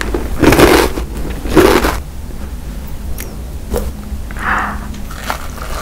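Close-miked crunching as a crispy, crumb-coated fried snack is chewed, two loud crunches in the first two seconds. After that it turns quieter, with a few faint clicks and one brief soft sound about halfway through.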